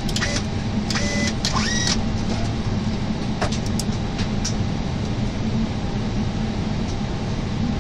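Steady hum and rush of air in an Airbus A321 cockpit on the ground before engine start, with a few faint clicks about three to four seconds in.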